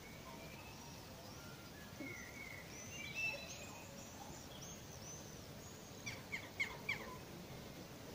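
Faint birdsong over steady background noise: arched chirps from about three seconds in, then a quick run of four sharp downward-sweeping notes a little after six seconds.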